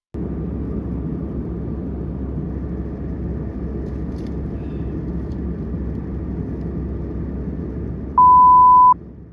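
Steady rumble of an Airbus A319 airliner cabin in flight, from engine and airflow noise. About eight seconds in, a loud single steady beep sounds for under a second.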